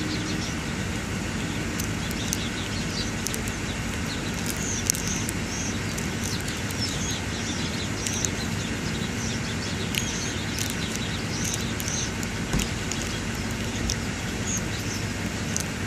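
Outdoor ambience: a steady vehicle hum with small birds chirping repeatedly over it.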